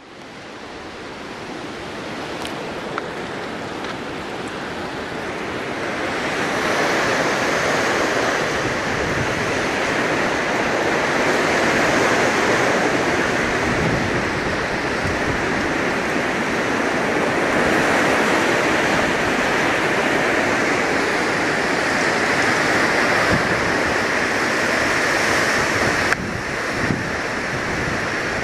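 Strong storm wind blowing hard with a steady rushing sound, building over the first few seconds and then swelling and easing in gusts.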